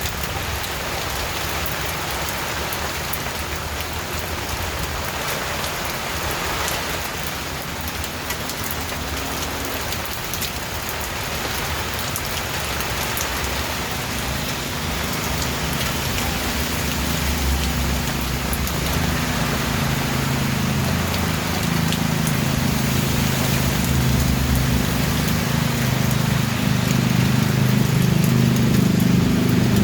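Steady rain falling on a surface, an even hiss throughout. A low rumble joins it about halfway through and grows louder toward the end.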